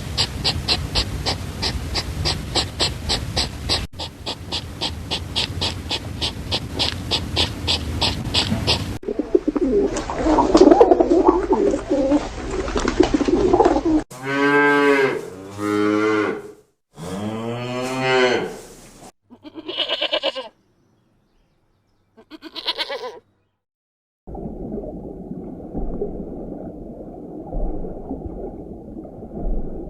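A run of short animal-sound clips: first a fast, regular pulsing for about nine seconds, then a noisy stretch, then several drawn-out calls whose pitch bends up and down, and finally a dull, steady low noise.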